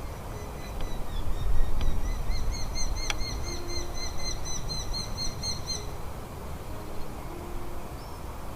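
A bird calling in a rapid run of short, high, arched notes, about five a second, for a few seconds, over a steady low rumble. A single sharp click falls about three seconds in.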